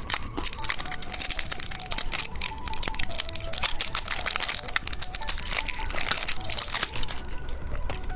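Plastic candy wrapper crinkling and crackling in quick, dense clicks, with quiet background music underneath.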